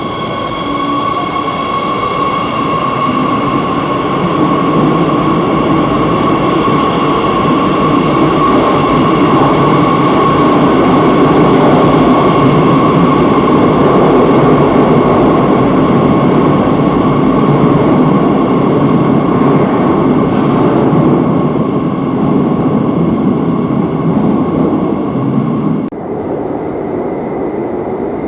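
Metro de Madrid series 8000 train running, heard from on board: a steady electric traction-motor whine over the rumble of wheels on rail, the noise dropping off abruptly near the end.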